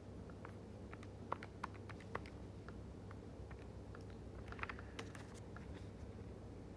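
Faint, irregular key taps as numbers are entered into a calculator, over a low steady hum.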